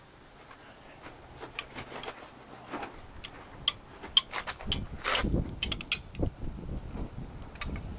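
Hand ratchet clicking as it works the main-bearing cap bolts of a Big Cam Cummins block, with metal clinks and knocks. Sparse at first, busiest in the second half.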